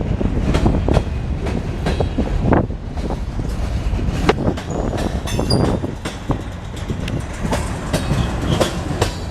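Freight train rolling past close by: a steady low rumble of its cars, with the wheels clacking over rail joints in irregular sharp clicks.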